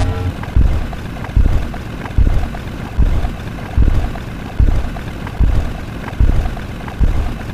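A looped sound effect: a low thump repeating about every 0.8 seconds over a steady rumbling noise.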